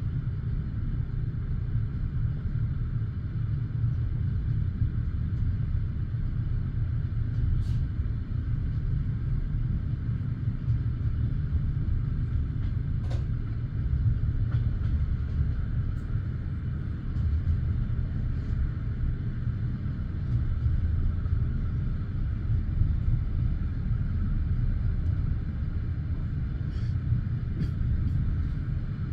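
Steady low rumble of a passenger railway carriage's wheels rolling on the rails, heard from inside the carriage, with a few faint sharp clicks here and there.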